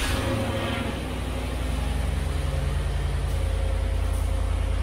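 Chevrolet Tahoe's V8 engine idling steadily just after a remote start, a low, even running sound.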